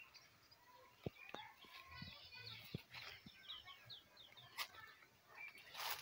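Faint birdsong: a quick series of short, falling chirps from about two to four seconds in. A few sharp clicks are scattered through it, and a brief rustle comes near the end.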